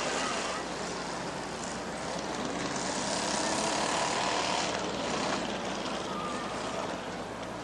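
Cars' engines running hard around a dirt oval track, droning and shifting in pitch as they pass, louder about three to four seconds in.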